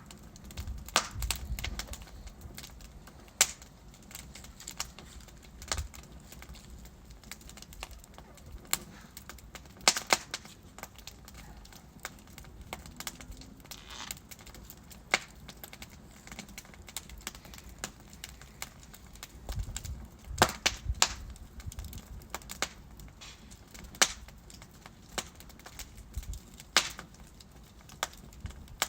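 Burning logs in a fireplace crackling, with irregular sharp pops and snaps over a low steady hiss and rumble of the flames.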